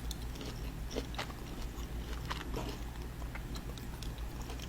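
Close-miked chewing of steak: soft, scattered wet mouth clicks over a faint steady low hum.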